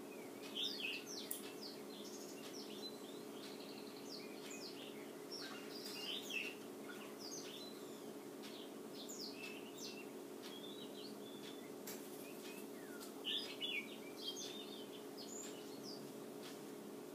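Birds chirping and calling in short, scattered bursts of high squeaks and notes, with a few louder clusters, over a steady low electrical hum.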